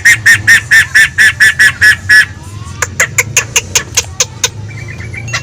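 A poksay (laughingthrush) singing in fast runs of repeated notes: a loud series of ringing notes, about five a second, that stops about two seconds in, then after a short pause a series of sharp, clipped notes at about the same pace. A low steady hum runs underneath.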